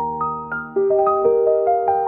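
Soft background piano music: a gentle melody of single notes, each struck and left to fade, over held low chords.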